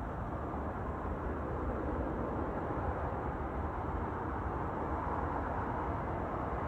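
Boeing 787-10 jet airliner on landing approach: a steady engine noise that swells slightly as it comes closer.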